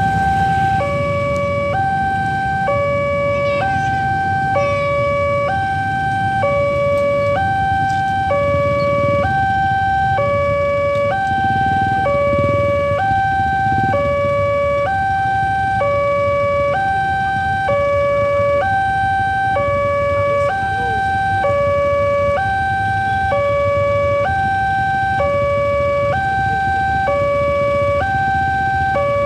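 Railway level-crossing warning alarm: an electronic two-tone signal switching between a lower and a higher note about every three quarters of a second, warning that a train is approaching. A steady low rumble runs underneath.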